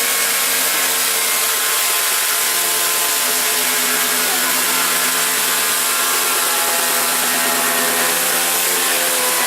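Chainsaw running steadily at high speed while cutting into a plastic toy, its pitch holding nearly level with slight wavering as it bites.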